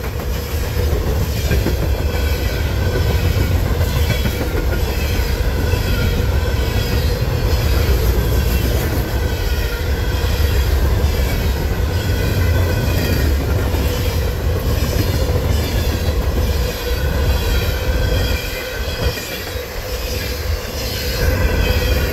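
Freight train of empty covered grain hopper cars rolling past at speed: a steady low rumble of steel wheels on rail with clicking over the rail joints and wavering high-pitched wheel squeal. The rumble eases somewhat in the last few seconds as the tail of the train goes by.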